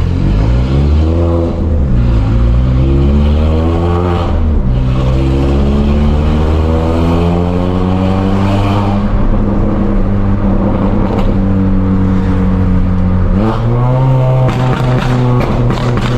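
GM Astra's engine accelerating hard through the gears, its pitch climbing in each gear and dropping at upshifts about 2 and 4.5 seconds in. It then holds a steadier pitch and rises again near the end, with a run of crackling clicks.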